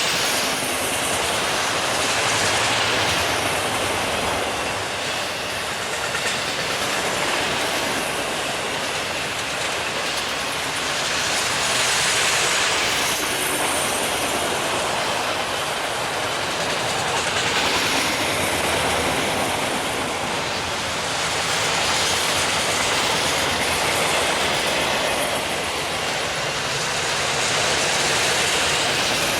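Freight train rolling past at speed: a steady rush of steel wheels on rail with clickety-clack over the rail joints, its loudness rising and falling in waves as the cars go by.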